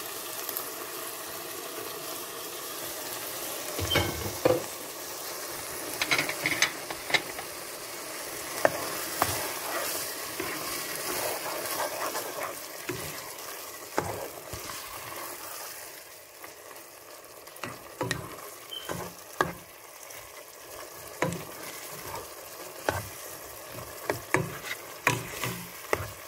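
Ground-meat tomato sauce with carrots and bell pepper sizzling in a frying pan, a steady hiss of frying, while a spatula stirs it with repeated short knocks and scrapes against the pan, more frequent in the second half.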